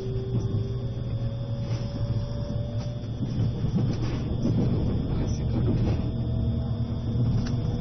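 Interior running noise of an E653 limited express electric train moving slowly under a strong-wind speed restriction: a steady low rumble and hum, with faint whining tones that slowly rise in pitch and a few light clicks.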